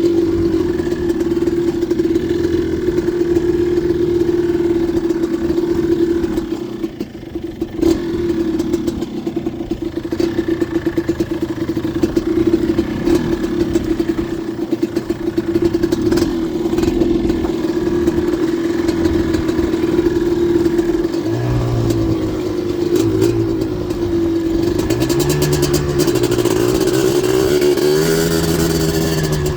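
Yamaha Blaster 240cc big-bore single-cylinder two-stroke with an FMF exhaust, ridden hard off-road. It holds a high, steady pitch at full throttle, backs off briefly about seven seconds in, then pulls again, and in the last several seconds the pitch rises and falls with the throttle.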